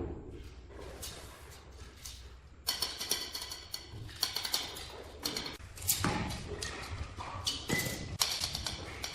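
Irregular taps and knocks with scraping from floor tiling work, a hissy scratching joining in about three seconds in.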